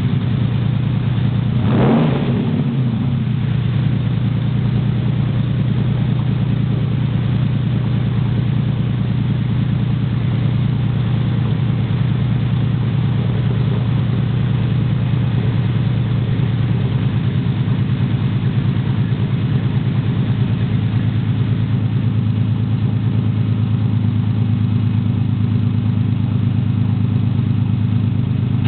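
Air-cooled Porsche 993-generation flat-six idling through an aftermarket sport exhaust, with one short blip of the throttle about two seconds in, then a steady idle.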